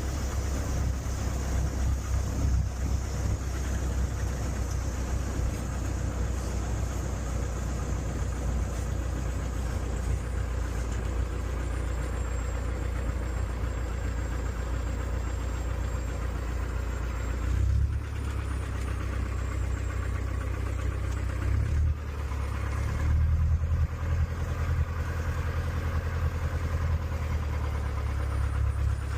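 Light aircraft's piston engine running at low power after touchdown, a steady low drone. Its note shifts about 18 seconds in and it grows louder from about 23 seconds in.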